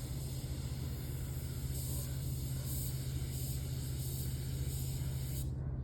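Paint spray gun hissing as it sprays epoxy primer. The hiss swells and fades a few times and cuts off abruptly near the end, over a steady low hum.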